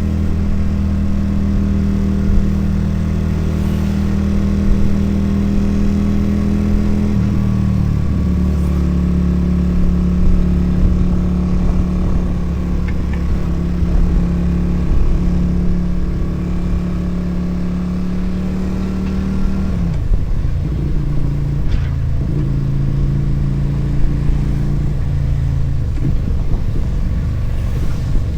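Motorcycle engine and exhaust heard from the rider's seat, running at a steady cruise. Its pitch drops a step about seven seconds in and again about twenty seconds in.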